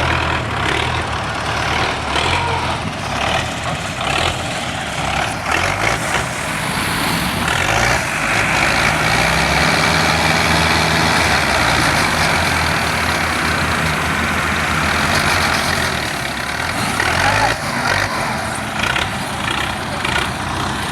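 Tractor engine running hard under load, its pitch rising and falling, holding a heavier steady pull through the middle.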